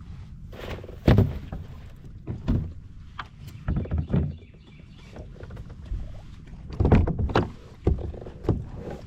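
Irregular hollow knocks and thumps of gear being handled on a plastic fishing kayak, about eight in all, the loudest about a second in and around seven seconds in, over a steady low rumble.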